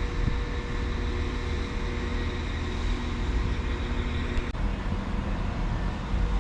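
Train standing or moving slowly at a station platform: a steady low rumble with humming engine or motor tones. One of the lower hum tones cuts off with a faint click about four and a half seconds in.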